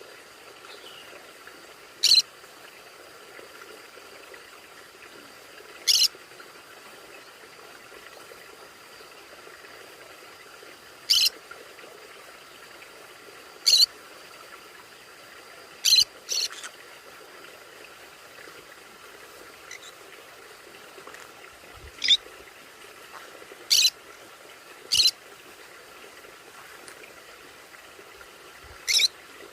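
Conure giving short, high-pitched screech calls, about ten single calls a few seconds apart, two of them close together about sixteen seconds in, over a faint steady hiss.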